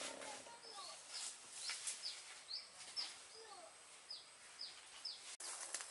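Small birds chirping: many short, high calls that fall in pitch, a few each second, over a faint background hiss.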